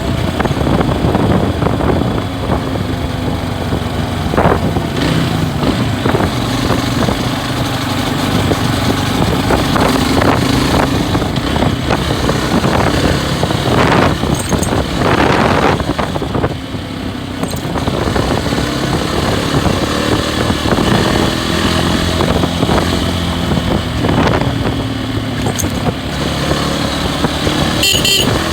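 Loncin SX2 250 motorcycle engine running under way, its pitch rising and falling gently with throttle and speed.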